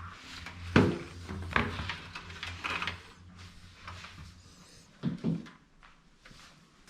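Handling noise from computer parts being fitted into a PC case: scattered knocks and clicks with rustling in between. The loudest knock comes about a second in, and a pair follows about five seconds in.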